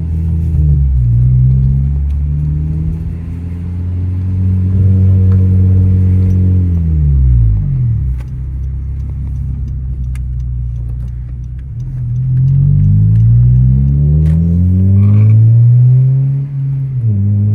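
Honda Civic Si's 2.4-litre four-cylinder engine running through an aftermarket Invidia N1 catback exhaust while driving. The note climbs, drops at a gear change about a second in and climbs again, falls away as the car slows around six to eight seconds in, holds low, then rises through two more pulls near the end.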